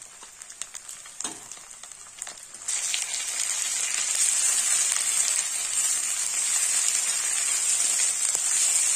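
Ginger-garlic paste frying with onions in hot mustard oil in an aluminium kadai: a light sizzle with a few spatula ticks, then about three seconds in, as the paste is stirred into the oil, the sizzle jumps to a loud steady hiss. It is spattering hard.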